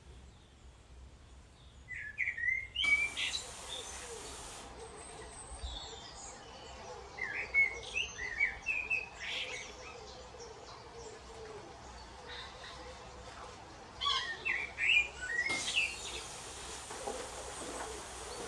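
Small birds chirping and singing in short, quick phrases, in three separate bouts, over a steady outdoor hiss that changes abruptly a few times.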